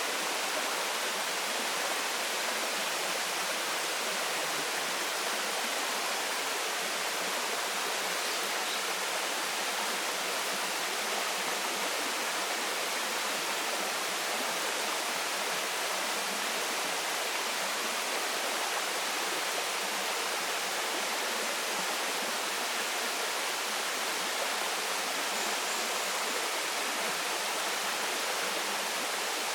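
Waterfall pouring steadily into a stream, a constant even rush of falling water with little low rumble.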